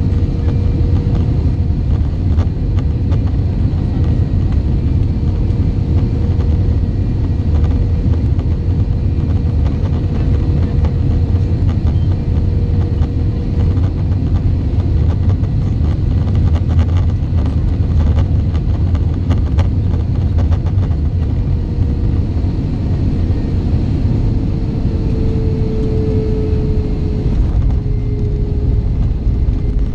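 Airbus A320 cabin noise: a steady, loud low rumble of the jet engines and airflow, with a steady hum that grows louder and shifts slightly in pitch about 25 seconds in before settling again.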